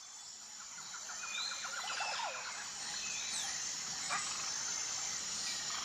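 Outdoor nature ambience: a steady high insect-like hum with birds chirping over it, including a quick trill of notes and short sliding calls.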